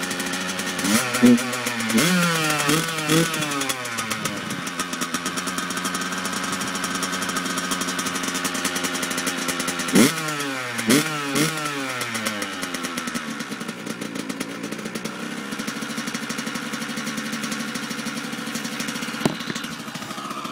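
2008 Kawasaki KX100's two-stroke single-cylinder engine running cold on choke. Its throttle is blipped several times about a second in and again about ten seconds in, and between and after the blips it idles steadily.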